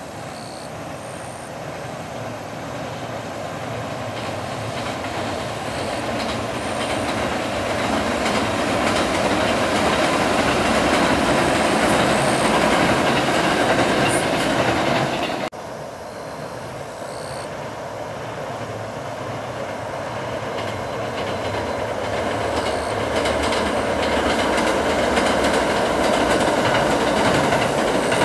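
Kintetsu Kyoto Line electric train crossing the railway bridge over the Kizu River, its wheels clattering on the rails and the rumble growing steadily louder as it approaches. About halfway through the sound cuts off abruptly, and a second train passage begins and builds up again.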